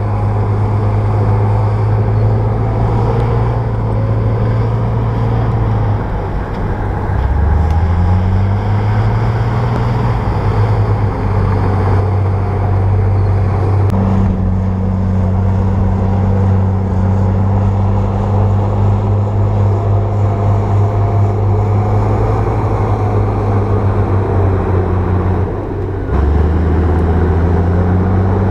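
Bulldozer's diesel engine running steadily under work. Its pitch dips about six seconds in and again near the end, then climbs back each time as the engine picks up.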